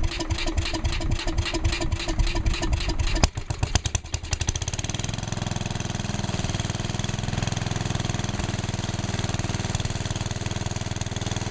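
1969 Sears Suburban SS12 garden tractor engine being cranked over in a pulsing rhythm of about four beats a second. It catches about three seconds in, then settles into running steadily.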